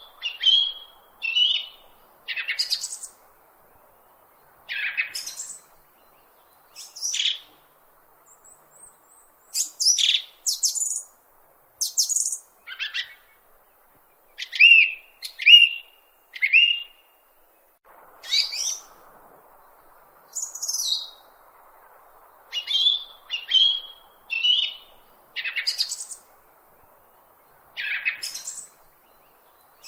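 Small birds chirping: short, high calls, some sweeping quickly in pitch, repeated irregularly about once a second.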